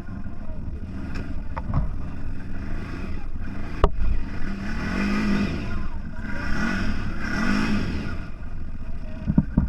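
CFMOTO 1000 off-road vehicle's engine running under way, its revs rising and falling several times, with a sharp knock about four seconds in.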